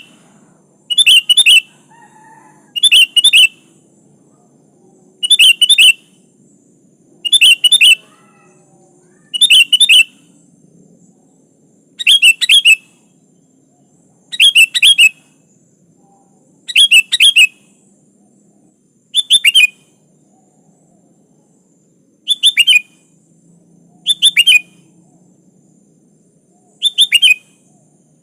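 Sooty-headed bulbul (kutilang) calling: a short, loud phrase repeated about every two seconds, a dozen times.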